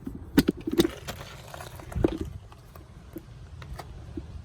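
A few light knocks and clicks of handling, the loudest about two seconds in.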